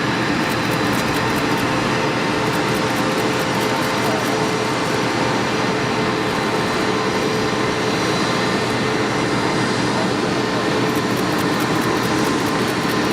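Bombardier Challenger 605 business jet's turbofan engines running steadily: an even rush of jet noise with a thin high whine over it.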